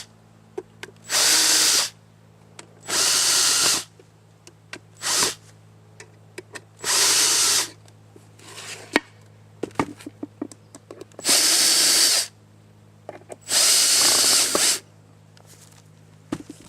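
A power drill/driver driving screws into the front of a cedar birdhouse, in six short runs of about a second each, one of them brief, with small clicks and taps between them.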